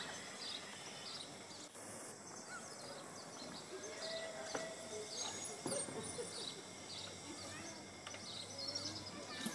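Small birds chirping repeatedly over a quiet outdoor background, with a few soft knocks about six seconds in.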